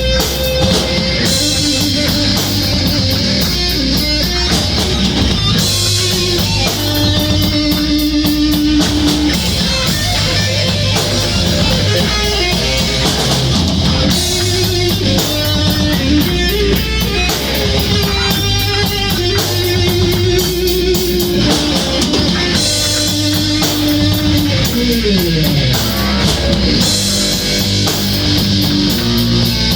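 A rock band jamming: electric guitar played over a drum kit, with long held notes and a long slide down in pitch a few seconds before the end.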